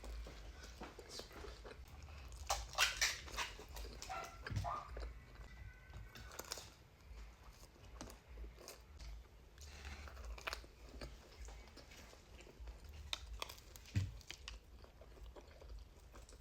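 Close-miked chewing and biting of pizza, with wet mouth clicks and a cluster of crisp crunches about three seconds in.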